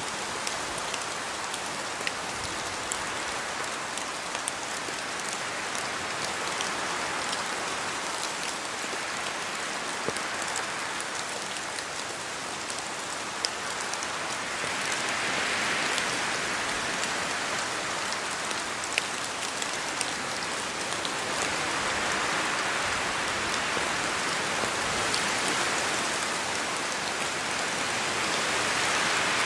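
Steady rain falling in a forest, with drops pattering off the trees and scattered single drops; the hiss swells about halfway through and again near the end, as gusts of wind pass.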